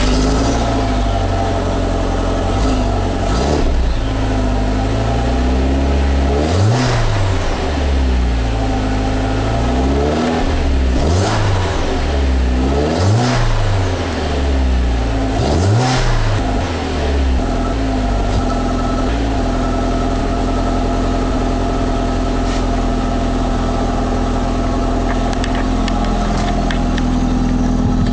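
2002 Volkswagen Jetta 1.8T's turbocharged 1.8-litre four-cylinder idling through its stock exhaust. About a third of the way in it is revved four times, each rev rising and falling in pitch, then it settles back to a steady idle.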